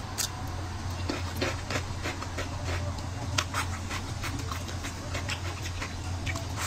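Close-miked eating sounds: chewing, with wet mouth smacks and clicks scattered throughout, over a steady low hum.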